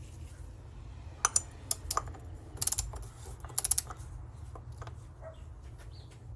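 Torque wrench ratchet clicking on the oil filter housing cap, in short irregular runs of sharp metallic clicks, with quick clusters about two and a half and three and a half seconds in, over a steady low hum.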